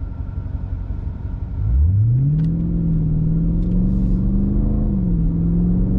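An SRT8's V8 engine heard from inside the cabin under medium-throttle acceleration in auto mode. After a low rumble, the engine note rises sharply about two seconds in and holds. It drops back briefly about five seconds in as the automatic transmission shifts up.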